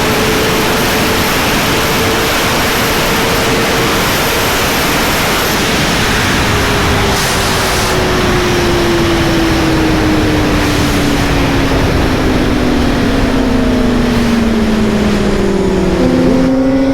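Suzuki GSX-R 600 inline-four engine running at speed under heavy wind rush on the microphone. The engine note holds steady, sinks gradually as the bike slows, then jumps up sharply near the end.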